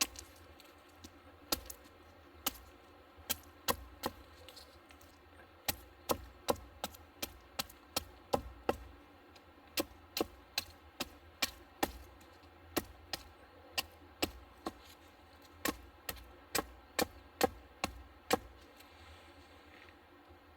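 Repeated chopping: a blade striking a hard surface in an uneven run of sharp knocks, about one to three a second, some in quick pairs.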